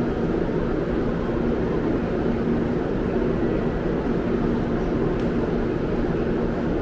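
Steady noise of a Shinkansen bullet train at a station platform, with a low steady hum under it.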